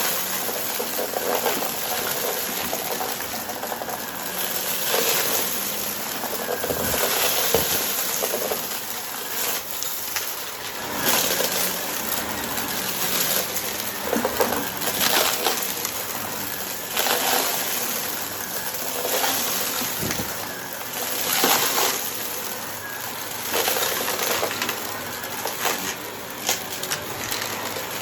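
Vacuum cleaner with a spinning brushroll sucking up dry crunchy debris, a steady motor hiss under dense crackling and rattling. The crunching swells and eases about every two seconds as the vacuum is pushed back and forth.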